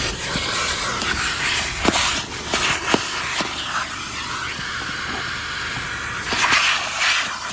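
Vacuum cleaner running with a steady suction hiss, broken by a few sharp clicks and knocks near the middle as it works over the car's interior; the hiss swells louder briefly near the end.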